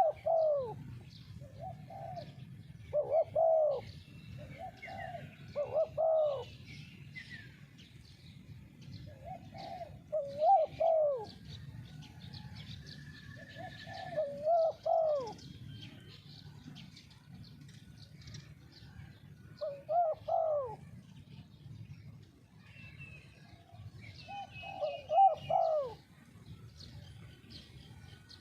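Spotted dove cooing: a repeated phrase of two or three rising-and-falling coos, given about every three to five seconds, with small birds chirping faintly behind.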